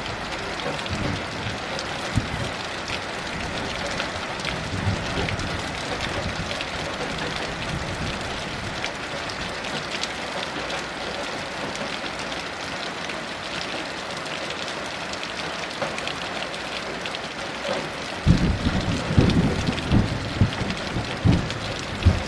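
Heavy rain falling steadily, a dense hiss with individual drops ticking on a hard surface. About eighteen seconds in, a low thunder rumble comes in, swelling in several uneven surges.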